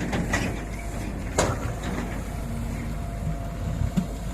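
Heavy diesel engine running steadily under load with a low rumble, and a sharp metallic clank about one and a half seconds in.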